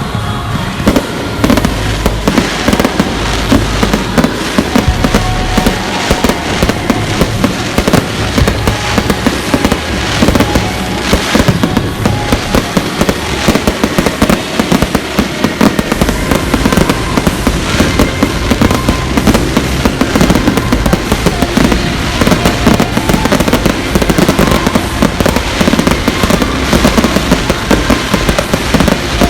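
Fireworks going off in a fast, dense barrage of bangs and crackles, many a second, without a break.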